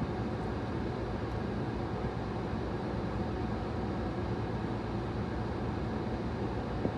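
Steady low rumble of a stationary car idling, heard from inside the cabin.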